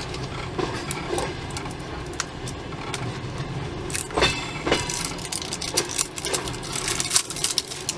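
Steady low rumble of a passenger train carriage under way, with small plastic clicks and rattles as a plastic surprise capsule is twisted and handled.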